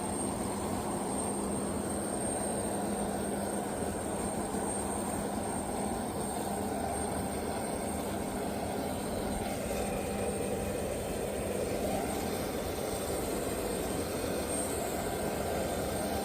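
Private jet engines running steadily: an even rushing noise with a constant high, thin whine.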